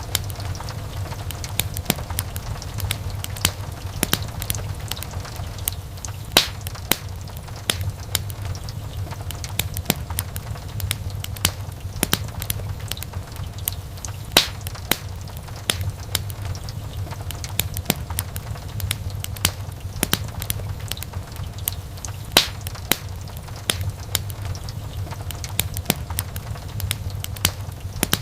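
Wood fire crackling, with frequent sharp pops and snaps at irregular intervals over a steady low rumble of burning.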